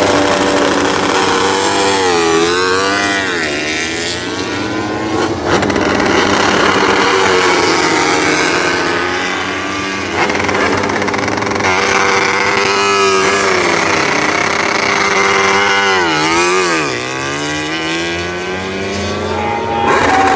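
Several racing motorcycles passing one after another at speed. Their loud engine notes climb sharply and fall away as each one goes by.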